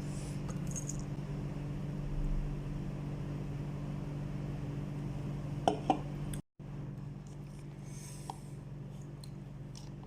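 Soft eating sounds from a spicy-noodle mukbang, slurping and chewing close to the microphone, over a steady low hum. A couple of sharp clicks come about six seconds in, just before the sound drops out for a moment.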